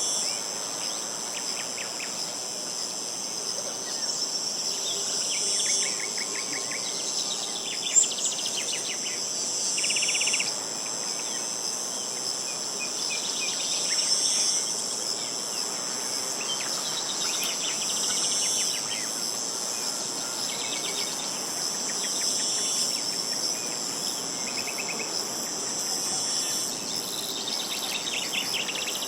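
Steady, high-pitched insect chorus with bird trills and short chirps breaking in every few seconds. A single sharp click sounds about eight seconds in.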